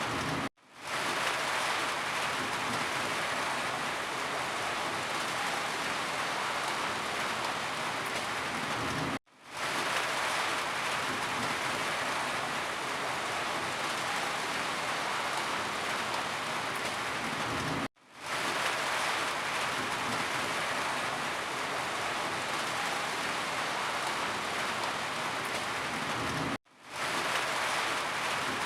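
Steady heavy rain falling. The sound cuts out abruptly three times, about every nine seconds, and fades quickly back in each time.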